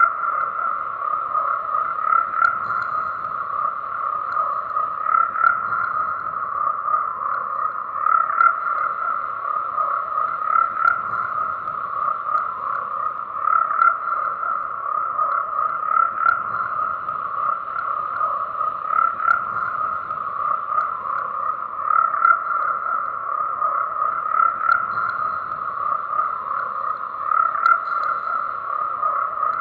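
Frogs croaking in a dense, continuous chorus, with louder calls swelling out every couple of seconds.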